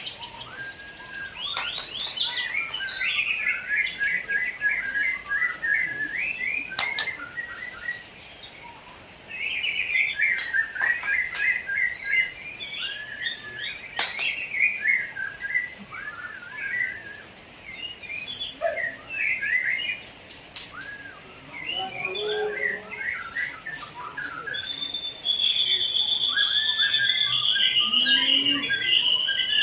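Several caged songbirds singing at once, a dense mix of overlapping chirps, whistles and short phrases. Near the end one bird holds a long, steady high trill.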